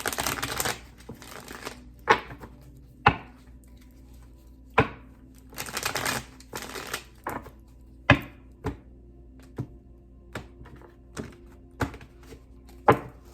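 Tarot cards being handled: a couple of spells of shuffling swish, with sharp taps and slaps of cards on a table scattered through, about a dozen in all.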